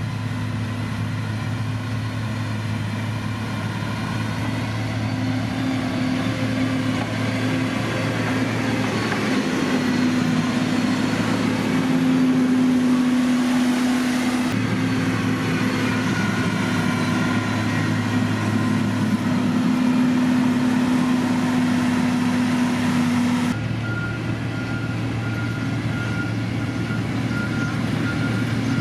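Heavy diesel road-construction machinery running steadily at a constant engine pitch, with the sound changing abruptly twice. A reversing alarm beeps at an even rate over the last few seconds.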